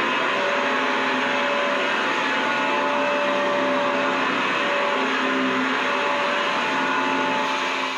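Vacuum cleaner running steadily: an even, loud rushing hiss of air with a faint steady motor hum. The level begins to drop right at the end.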